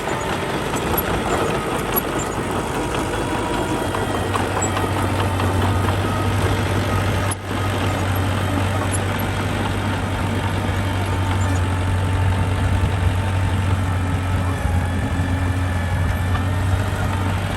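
Diesel engine of a small earthmoving machine running steadily with a continuous low hum, briefly dropping out about seven seconds in.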